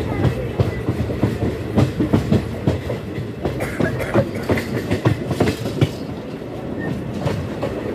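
Moving express-train coach heard from alongside its open side: a steady rumble of the running gear with an irregular clickety-clack of wheels over the rail joints, thickest through the middle few seconds and easing off near the end.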